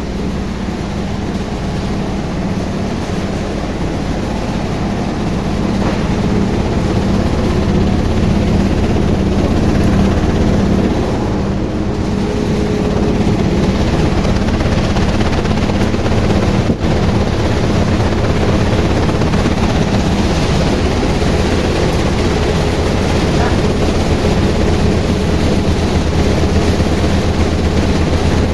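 Automatic raisin colour-sorting machine running with a loud, steady mechanical drone.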